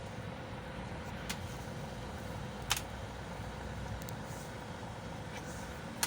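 Steady low mechanical hum, with a few short sharp clicks of tools or metal parts being handled, the loudest near the middle.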